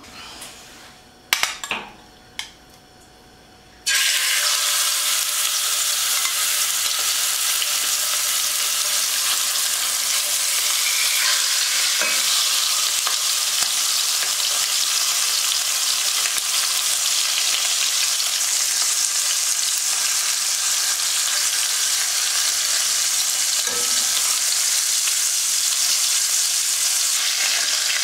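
Chicken thighs frying in hot oil in a pan: a steady loud sizzle that starts suddenly about four seconds in, after a few sharp knocks.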